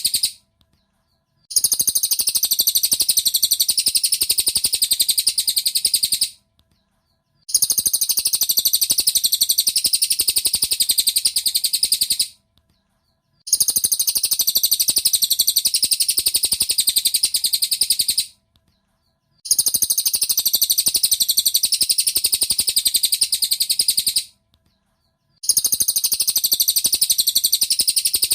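Cililin bird song: a very fast, high-pitched chattering trill in bursts of about five seconds, each broken by about a second of silence. The bursts repeat alike at even spacing, as in a looped training recording.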